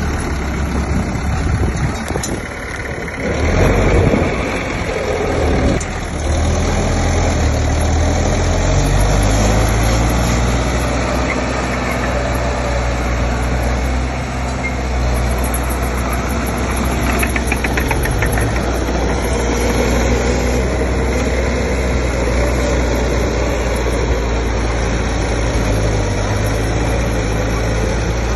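Diesel engine of heavy earthmoving machinery running steadily under a low hum, with a louder, noisier surge about four seconds in.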